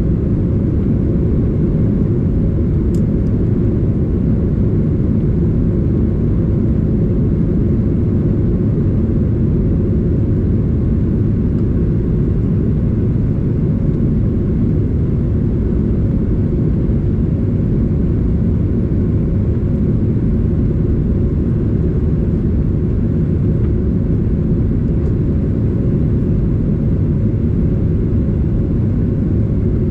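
Steady low rumble of a Boeing 737-800 airliner, with a faint steady hum above it and a single small click about three seconds in.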